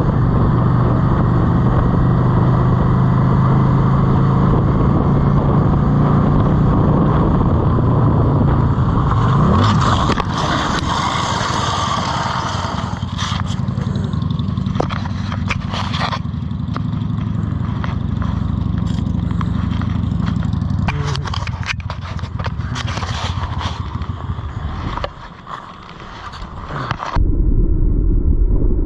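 A motorcycle engine running at a steady pace while riding, with scattered knocks and rattles in the second half. Near the end the sound changes abruptly to a duller, lower rumble.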